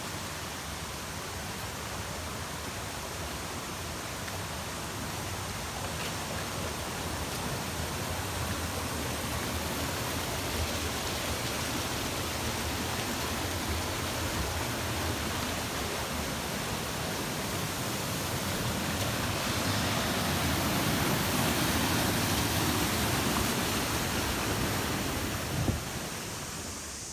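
Stream water rushing: a steady hiss that swells louder about two-thirds of the way through, with a single brief knock near the end.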